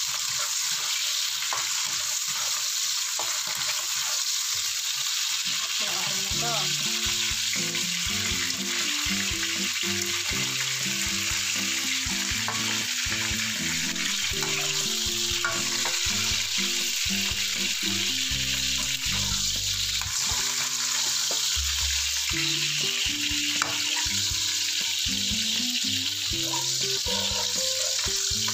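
Green beans sizzling in hot oil in a pan, a steady hiss, with light background music coming in about six seconds in.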